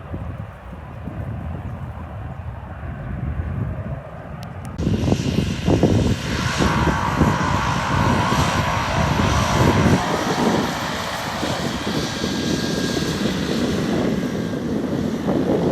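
Private jet taking off, its engines running at takeoff power: a low rumble that turns suddenly louder and fuller about five seconds in, with a whine riding over it for a few seconds, and wind buffeting the microphone.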